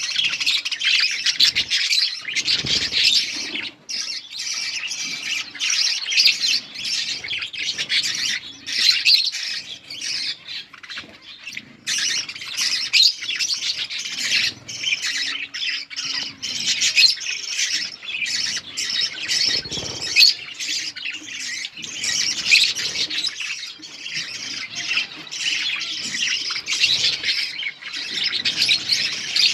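A group of budgerigars chattering and squawking in a continuous dense stream of high chirps.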